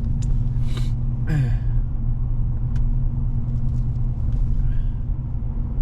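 Steady low rumble of a pickup truck running, engine and road noise heard from inside the cab.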